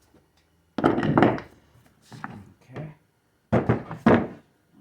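Heavy metal automatic-transmission parts, a planetary gear set from a 4L60E, handled and set down on a workbench. There are several dull clunks: a cluster about a second in, two lighter knocks around the middle, and two strong ones near the end.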